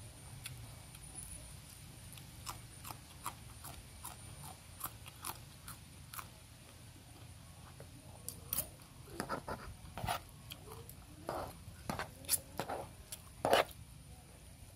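Close-up chewing and crunching while eating rice and curry with a raw yard-long bean, mixed with scattered clicks and scrapes of a metal spoon and fork on a plastic tray. The clicks and mouth sounds grow denser and louder in the last few seconds.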